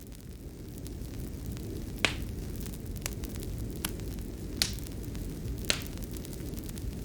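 Fireplace crackling: a steady low rumble of burning with about five sharp pops of the wood. The sound swells up over the first second.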